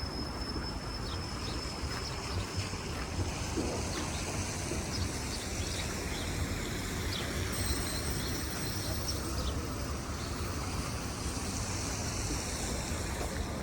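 Steady city street noise with a low rumble of traffic, broken by a few faint clicks.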